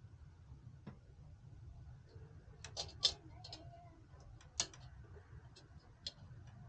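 Irregular light clicks and taps of small computer parts being handled: a faint click about a second in, a quick run of three near the middle, another pair a little later and a small one near the end, over a low steady hum.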